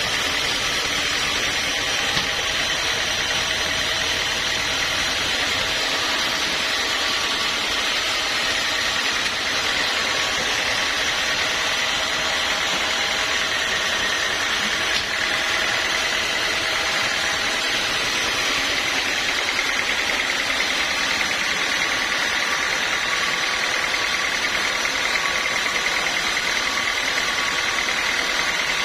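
Sawmill machinery running steadily, an even mechanical hum with a high whine and no change in pitch or load.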